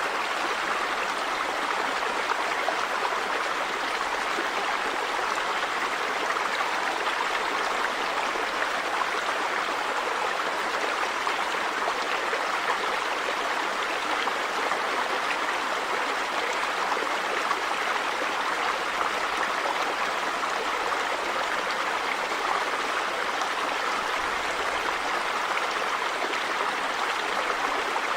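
River water running over stones: a steady, even rush with no breaks.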